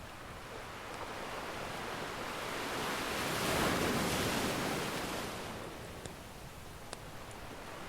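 An ocean wave surges in, swells to a peak about halfway through and washes back out. A couple of soft pops from a crackling wood fire come near the end.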